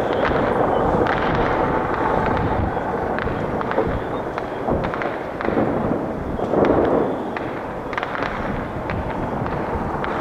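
Fireworks display: a continuous barrage of shell bursts and crackling, swelling louder about six to seven seconds in.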